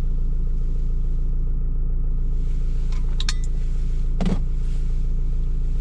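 A vehicle's engine idling steadily, with a few light clicks about three seconds in and a short knock a second later.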